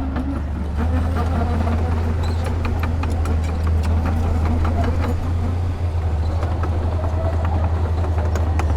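Diesel engine of heavy earthmoving machinery running steadily, its low drone getting louder about a second in, with scattered metallic clanks and knocks throughout.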